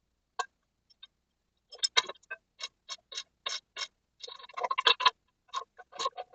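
Hand ratchet wrench clicking in short strokes, about three sharp clicks a second, then a brief denser metallic rattle partway through.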